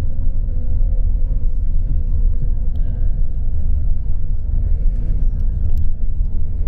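Tour coach driving on a country road, heard from inside the cabin: a steady low rumble of engine and road noise with a faint steady hum and a few light ticks.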